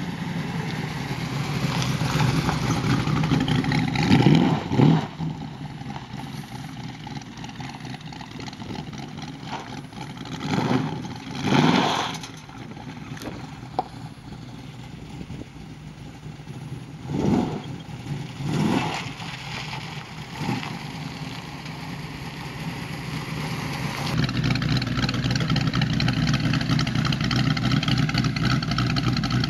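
450 hp 6.3-litre V8 in a 1951 Chevy Stepside pickup idling and being revved in short bursts several times, twice in quick succession each time. In the last few seconds it runs steadier and louder.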